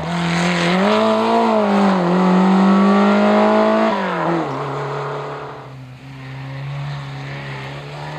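Historic rally car engine running hard at high revs, its pitch rising about a second in and holding. About four seconds in the pitch drops sharply and the engine goes on at a lower, quieter steady note as the car passes and draws away.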